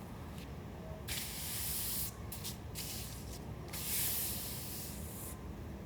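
Two long hisses of about a second each, with a few short hisses between them.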